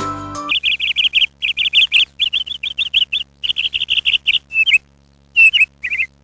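Music stops about half a second in, then a small bird chirps in quick runs of short notes, the runs growing sparser with longer gaps near the end.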